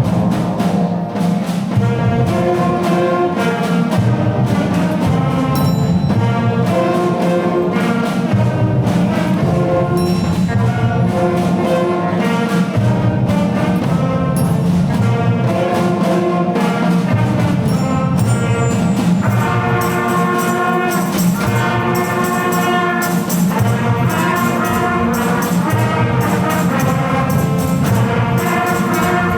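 A student instrumental ensemble playing a holiday piece, led by brass such as trumpets and trombones, with sustained chords and no singing.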